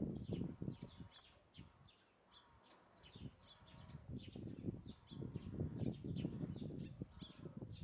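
Small birds chirping rapidly and continuously, several short high chirps a second, over irregular low rumbling that eases off about two seconds in and returns.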